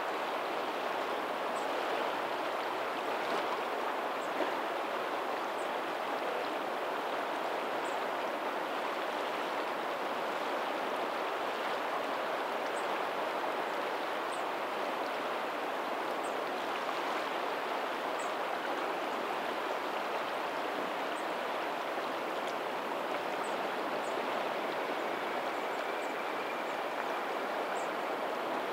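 Steady rush of water from a lagoon's tidal outflow running out to the sea, with faint high chirps every second or two.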